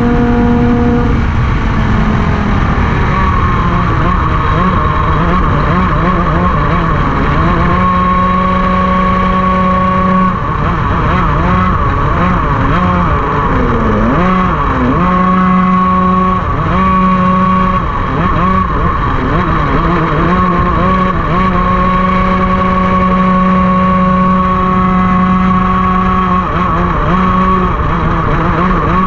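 Racing kart engine running at high revs, holding a steady pitch for stretches, then dropping and climbing back several times as it slows and accelerates again.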